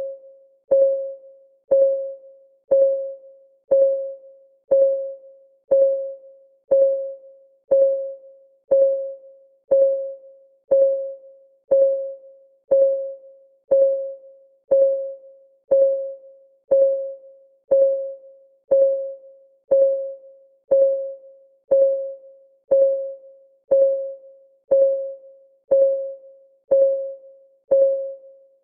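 Countdown timer's clock ticking sound: one short, pitched tick about every second, each ringing briefly at the same mid pitch and dying away, in an even, unchanging rhythm.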